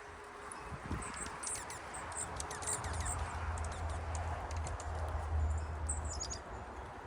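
Small wild songbirds chirping: many short, high chirps, with a quick falling run of notes near the end. A low rumble sounds underneath through the middle.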